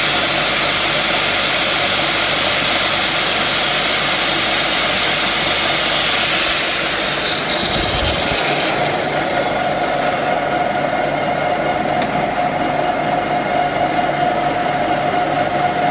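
Power tools running hard as a Mercedes shock absorber's chrome strut rod is wet-polished with emulsion to remove scratches. About seven seconds in, a high whine slides down in pitch and the hiss fades as one tool winds down, leaving a steady motor hum.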